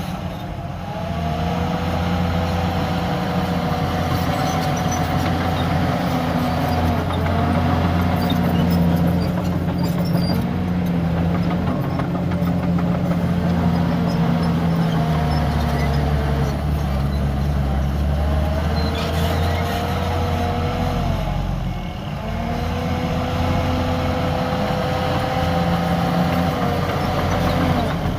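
Komatsu D51PX bulldozer's diesel engine running steadily under load, with a higher whine that bends up and down in pitch every few seconds as the machine works.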